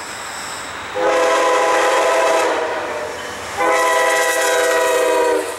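Locomotive air horn sounding two long multi-note blasts over the rumble of an approaching train: the opening of the long-long-short-long grade-crossing signal. The horn is most likely that of the Amtrak GE P42DC leading the Pennsylvanian.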